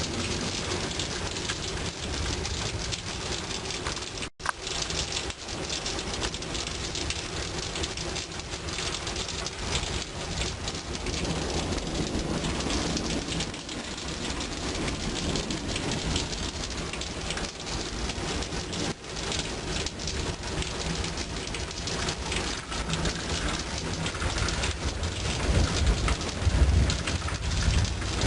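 Steady heavy rain falling, with low thunder rumbling that swells loudest near the end.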